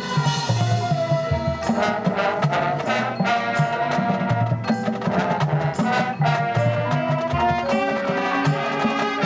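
High school marching band playing its field show: brass ensemble with drums and other percussion striking a steady beat.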